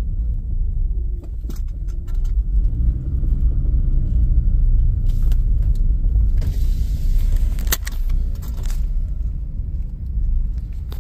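A car driving, heard from inside the cabin: a steady low engine and road rumble with a few sharp clicks and light rattles, easing off near the end as the car slows.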